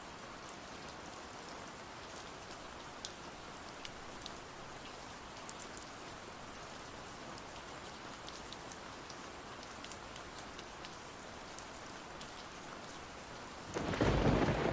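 Steady rain with scattered light drip-like ticks. Near the end a loud thunderclap breaks in and rumbles on.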